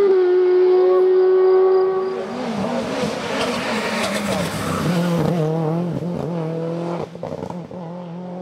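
Race car engine held at steady high revs, then a long tyre squeal while the engine's revs rise and fall unevenly; the sound drops sharply about seven seconds in.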